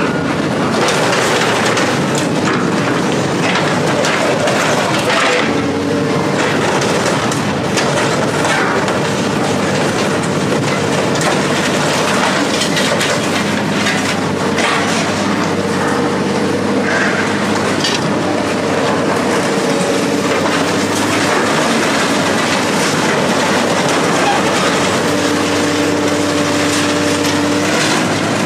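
A heavy machine's engine running steadily, with its pitch shifting now and then, under repeated metallic knocks and clanks.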